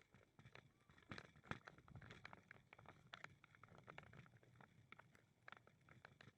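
Faint footsteps on a walking path, a string of soft irregular taps.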